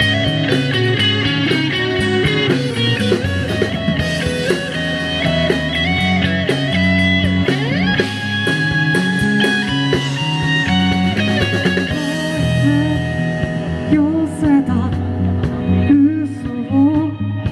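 Rock band playing live: guitars over a steady bass line, with a voice singing in over the last few seconds.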